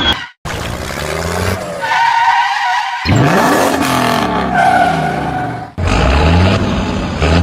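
Motor engines running and revving, their pitch sliding up and down, in several short spliced clips with abrupt cuts between them.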